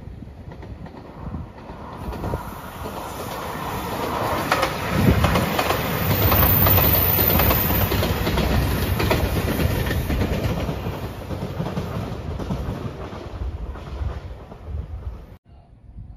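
JR Shikoku 2700 series diesel limited express train passing at speed, growing louder to a peak about six to eight seconds in and then fading, with the clickety-clack of its wheels over the rail joints. The sound cuts off suddenly near the end.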